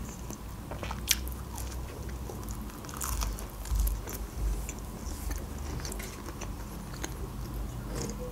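A person chewing and biting pizza crust: wet chewing with short crunchy crackles, the crispest about a second in and again around three to four seconds.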